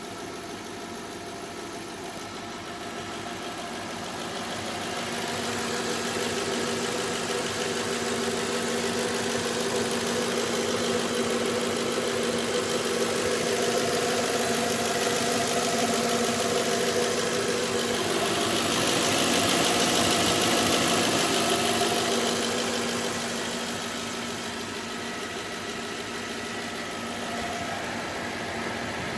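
Audi S6 C5 4.2 V8 engine running at a steady speed, growing louder over the first several seconds. About two thirds of the way through, a rushing hiss swells up for a few seconds and then eases off.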